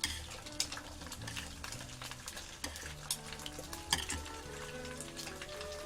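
Egg frying in oil in a pan: a steady sizzle with scattered crackles and a few sharp clicks of utensils, over soft background music with held single notes.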